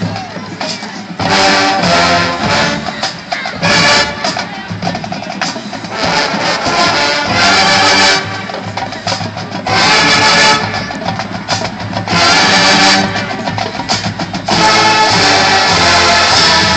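Marching band playing: brass and drums in loud full-band blasts a second or two long, between softer passages.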